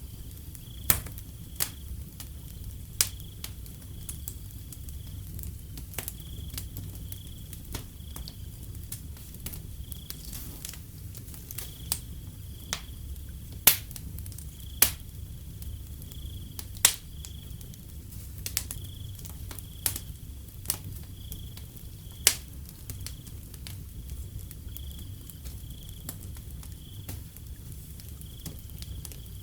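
Wood fire crackling, with sharp irregular pops, the loudest about a second in and around the middle, over a low steady rumble of the flames. A cricket chirps steadily in short high pulsing trills behind it.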